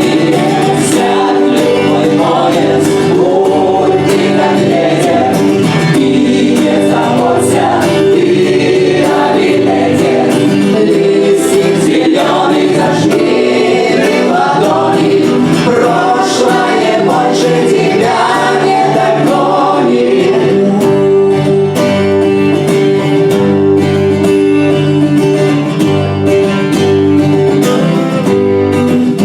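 A group of voices singing a song together to acoustic guitar accompaniment.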